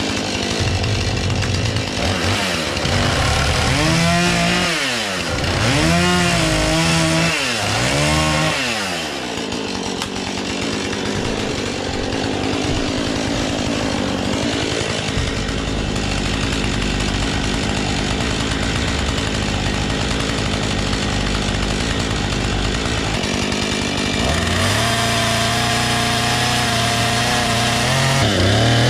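Petrol chainsaw running, revved up and down several times in the first nine seconds, then held at a steadier speed, with a jump in pitch and level about 24 seconds in.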